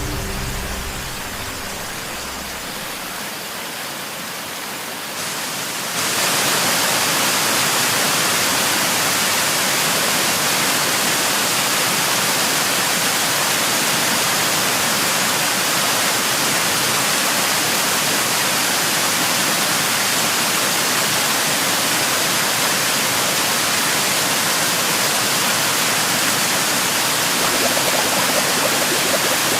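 Waterfall: a steady rush of falling water, stepping up louder about six seconds in.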